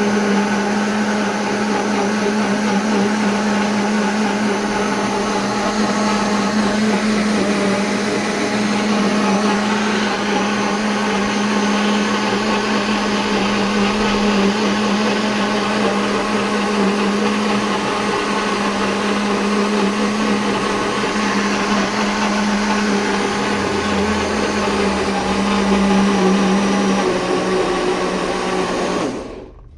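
A 1990s Arno Auto Clean blender's electric motor running steadily with a continuous whirring hum. The sound drops away briefly near the end.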